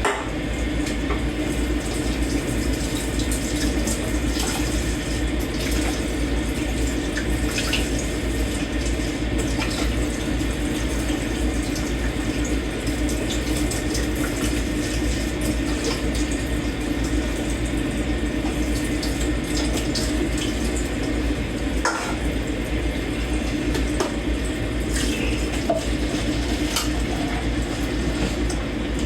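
Kitchen tap running steadily into a sink while dishes are washed by hand, with a few faint clinks of dishes here and there.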